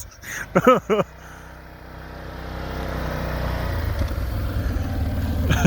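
Engine of a six-wheel-drive utility vehicle with a cab, running steadily and getting louder as it drives toward the listener through deep snow.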